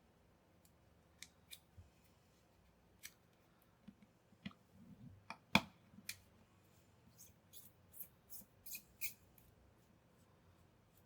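Small sharp clicks and taps of hand tools on small plastic and metal parts, scattered at first, the loudest a little past halfway, then a quick run of snipping clicks near the end.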